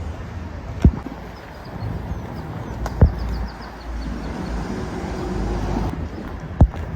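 Outdoor street background noise with a low rumble that swells in the middle, like traffic passing. Three sharp knocks come about a second in, about three seconds in and near the end, and faint bird chirps sound around the middle.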